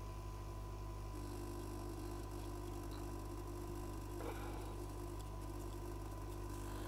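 Steady electrical hum from bench equipment, with faint whining tones; a higher whine and hiss join about a second in and hold steady.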